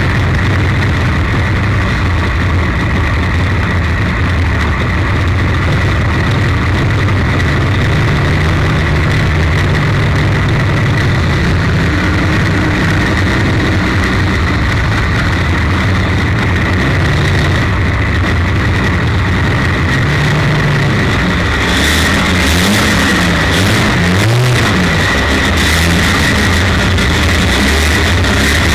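Onboard sound of a 1932 Ford Super Modified's 300 cubic inch straight-six engine running steadily, its note shifting up and down in the last several seconds.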